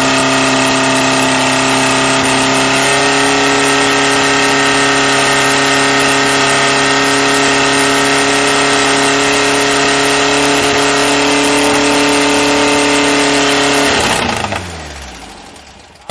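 Freshly built 1776cc VW Beetle air-cooled flat-four engine running steadily on its first run, its pitch stepping up slightly about three seconds in. Near the end it loses power and spins down to a stop, starved of fuel.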